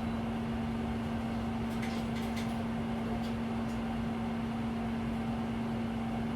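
Cabin sound of a Hino Blue Ribbon City Hybrid city bus: a steady mechanical drone with one constant low hum and a few faint rattling clicks.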